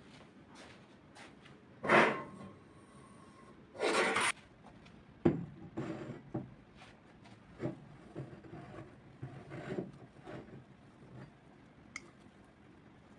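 Household objects being handled and set down: a sharp knock with a brief ring about two seconds in, a short scraping slide near four seconds, then lighter knocks and rubbing.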